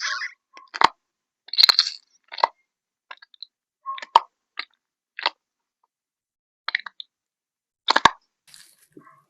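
Crunchy ASMR craft material being handled: a series of separate crisp crunches and crackles, roughly one a second, with silence between them.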